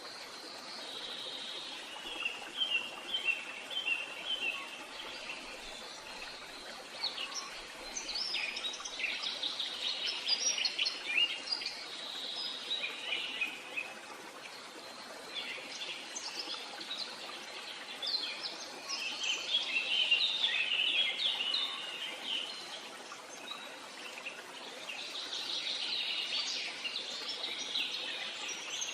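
Wild birds singing and chirping in repeated phrases and quick trills, coming in spells every few seconds over a steady background hiss.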